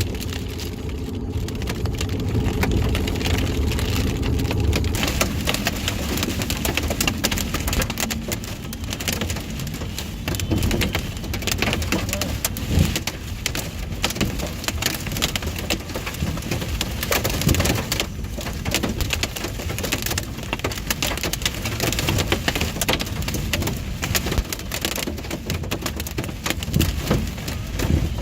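Rain pelting a car's windshield and roof while driving: a dense patter of separate drop hits over steady low road rumble.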